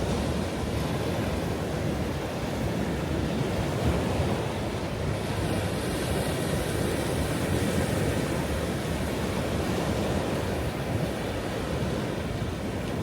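Ocean waves surging and washing onto a shore in a steady, dense rush, with some wind on the microphone.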